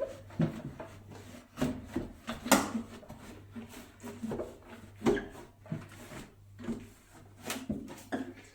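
A cloth wiping and rubbing over a microwave, with irregular knocks and bumps against it. The loudest knock comes about two and a half seconds in. A steady low hum runs underneath.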